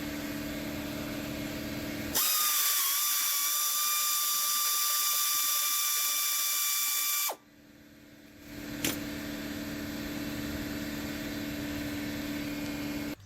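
Pneumatic air ratchet running at 90 psi, working exhaust bolts loose: a loud, steady high whine for about five seconds in the middle. A steady low hum comes before and after it, with a single click about nine seconds in.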